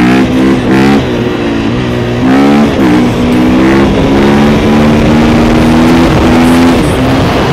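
KTM 450 EXC single-cylinder four-stroke enduro engine accelerating hard through the gears, its pitch climbing and then dropping back at each upshift.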